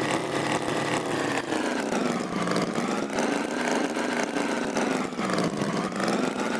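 A tractor engine running, its pitch dipping and rising again about every three seconds.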